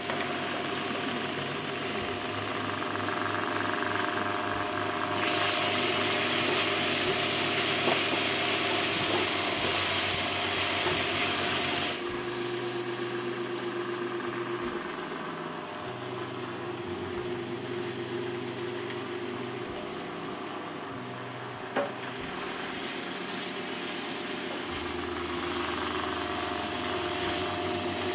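Spiced onion-tomato curry masala sizzling in a pan over a steady hum, the sizzle louder and hissier for several seconds about five seconds in.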